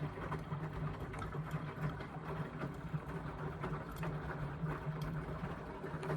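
Indesit washing machine running its wash, the motor turning the drum with a steady hum and irregular clicks and swishes from the tumbling wet load.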